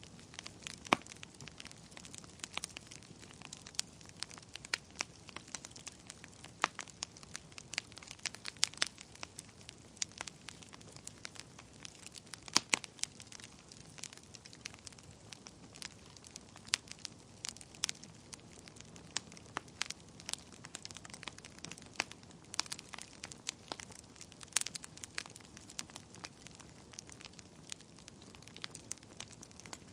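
Fire burning in a fireplace, crackling with irregular sharp pops, several a second and some louder, over a soft hiss.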